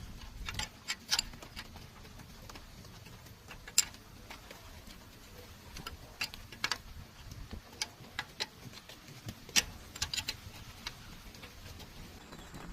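Scattered light clicks and taps of hand tools on metal parts, irregularly spaced, with two sharper knocks about four and nine and a half seconds in.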